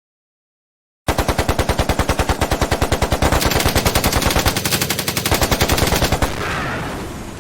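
Rapid automatic gunfire, used as a sound effect: a fast, even string of shots, about nine a second, that starts about a second in, runs for about five seconds, then stops and fades away.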